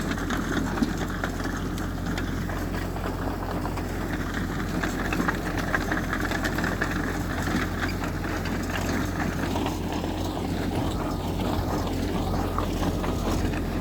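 Heavy earthmoving machine's diesel engine running steadily, with scattered clatter and rattles over it.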